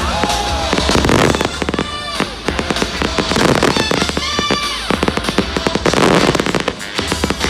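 Fireworks bursting and crackling in quick succession over loud show music.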